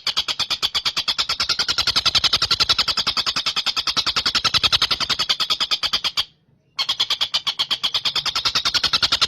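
Tengkek buto (stork-billed kingfisher) calling in a fast, even rattle of sharp high notes, about ten a second. It cuts out briefly about six seconds in, then carries on unchanged.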